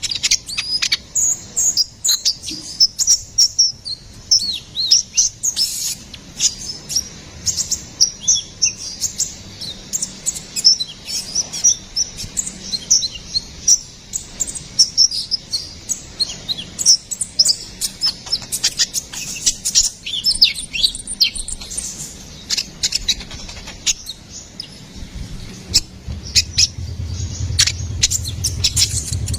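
Kolibri ninja (konin) sunbird singing a rapid, busy stream of high-pitched chirps and twittering trills. A low hum comes in near the end.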